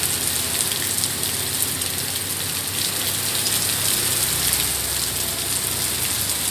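Heavy rain pouring down in a steady hiss, with many small sharp ticks of drops striking surfaces. A low rumble swells about four seconds in.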